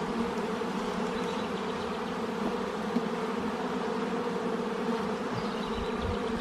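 Honeybee colony buzzing in a steady hum around an opened hive during a frame inspection.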